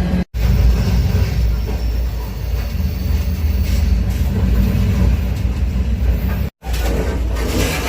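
Steady low rumble of a moving freight train heard from aboard an open grain hopper car. The sound cuts out abruptly for an instant twice.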